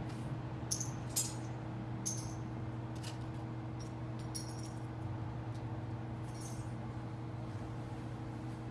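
A few short metallic clinks and jingles, irregularly spaced, over a steady low hum.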